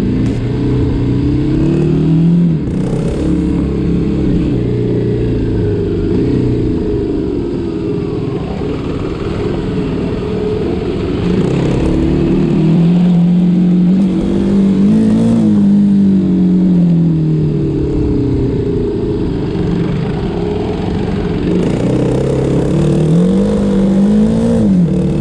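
Small motorbike engine under way, its pitch climbing and dropping several times with throttle and gear changes; the longest climb peaks about halfway through, and another rise falls away just before the end.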